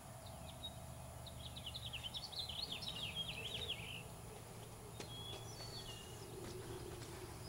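Birds singing: a rapid trill of chirps starting about a second in and lasting over two seconds, then a few short whistled notes, over faint steady background noise.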